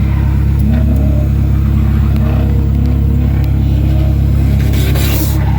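The S2000-swapped mini-truck's Honda four-cylinder engine revving up several times under a heavy, steady low rumble, heard from inside the truck. A short burst of hiss comes near the end.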